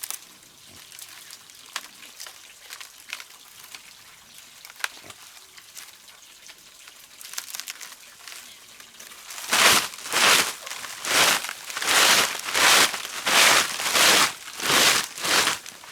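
Light scattered crackling, then about nine and a half seconds in a run of loud, rhythmic scraping strokes, roughly one every 0.7 seconds.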